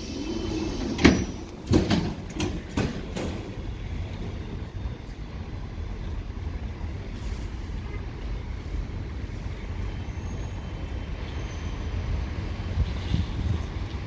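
Train at a station platform with a low steady rumble, and a few sharp knocks in the first three seconds.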